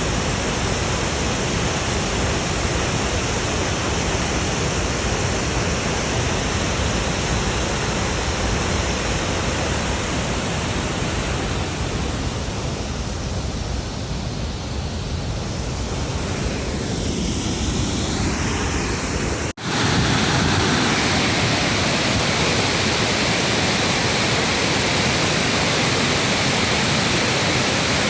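Waterfall: a steady rush of falling water. It cuts out for an instant about twenty seconds in and comes back louder and brighter.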